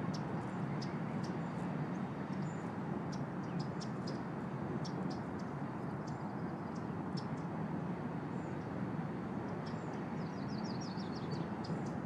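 Short, high bird chirps scattered over a steady low rushing background, with a quick trill of chirps near the end.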